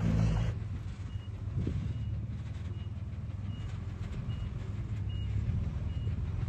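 Heavy earthmoving machine's diesel engine running low and steady, with a reversing alarm beeping at an even pace, about one short high beep every 0.8 seconds. The engine is louder for the first half second, then eases down.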